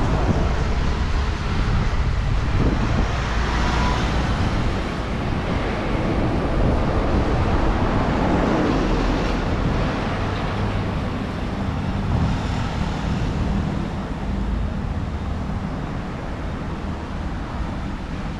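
Steady road traffic: vehicles passing on a city street over a constant low rumble, swelling and fading as they go by.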